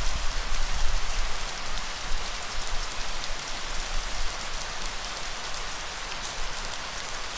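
Steady rain falling, with many individual drops ticking. A low rumble runs underneath.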